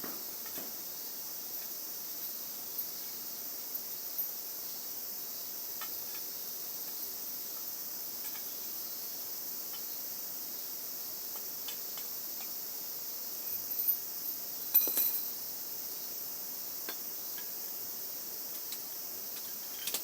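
Steady high-pitched insect chorus of crickets, with a few scattered light clinks and knocks and a short burst of louder clinks about three-quarters of the way through.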